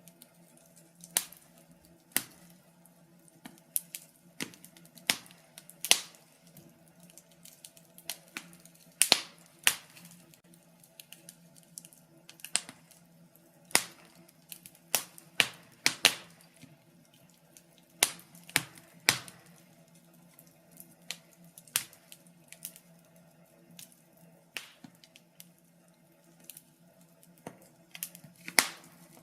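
Wood fire crackling in a fireplace: irregular sharp pops and snaps, one or two a second, bunching together in places. Under them runs a faint steady low hum.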